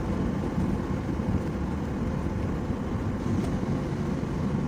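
Steady road and engine noise heard inside the cabin of a vehicle driving on a highway: a continuous low rumble with tyre hiss.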